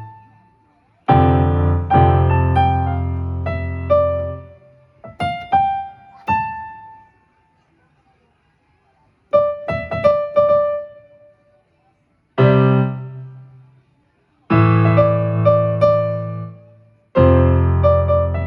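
Electronic keyboard on a piano voice, played haltingly by a beginner: short phrases of chords and single notes, each left to die away, broken by pauses of a second or two.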